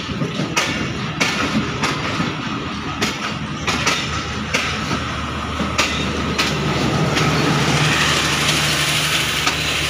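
Passenger coaches of an express train rolling slowly past on arrival, the wheels clacking over rail joints at uneven intervals. About two-thirds of the way in, the power van comes by and its generator adds a steady low hum, with a rising hiss above it.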